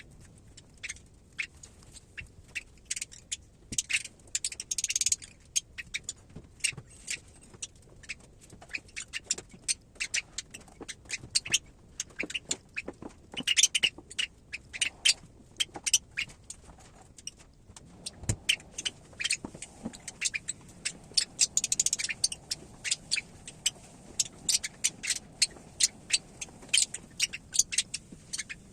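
Parrot chick pecking at the inside of its eggshell while hatching: irregular small clicks and taps, a few a second. Three times, short bursts of hissy scraping cut in.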